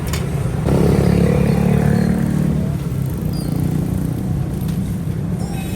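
A motor vehicle engine running close by, loudest for a couple of seconds from about a second in, with a few sharp clicks near the start.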